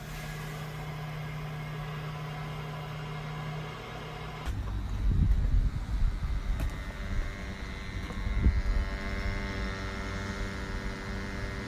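Weil-McLain Ultra condensing gas boiler firing: a steady low hum, then about four and a half seconds in the sound changes and a low rumble rises as the burner lights, twice peaking loudly, before settling into a steady, even hum from the burner.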